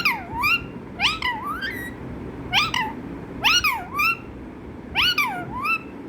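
Pet parrot imitating a cat's meow: five short meow-like calls about a second apart, each a quick sweep down and back up in pitch.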